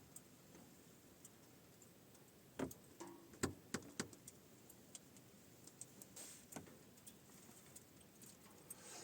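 Near silence broken by a short run of small clicks and knocks about three seconds in, then a few fainter ticks.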